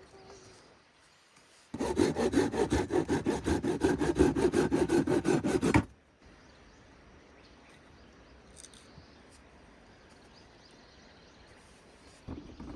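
A saw cutting through wood in quick, even strokes, about six a second, starting about two seconds in and stopping abruptly about four seconds later.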